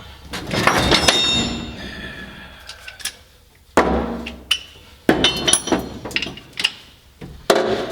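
Metal clanking and knocking on a Mack truck cab part that is still held by one missed bolt. A cluster of hard clanks with bright metallic ringing comes about a second in, followed by further knocks around four, five and seven and a half seconds.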